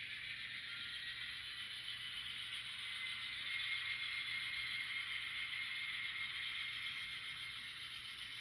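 N scale model locomotive running along the track: a steady small-motor whine with wheels rolling on the rails, getting a little louder in the middle.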